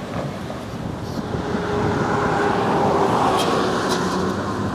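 Road traffic: a car passing, its tyre and engine noise swelling to a peak about two to three seconds in and easing off.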